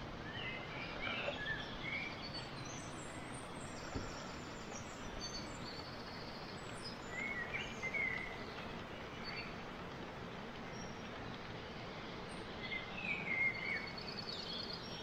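Birds chirping in three short bouts (about a second in, near the middle and near the end) over a steady outdoor hiss, with a single faint click about four seconds in.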